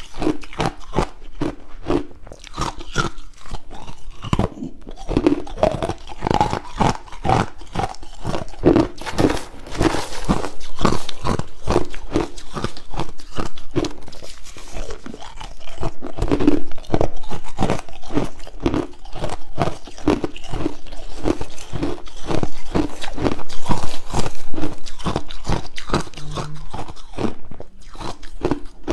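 Crushed ice being bitten and chewed: a loud, continuous run of sharp crunches, several a second.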